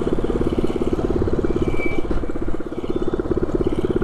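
224cc mini bike's single-cylinder four-stroke engine running through a short straight pipe, a rapid, steady popping exhaust beat while riding that eases briefly about two and a half seconds in.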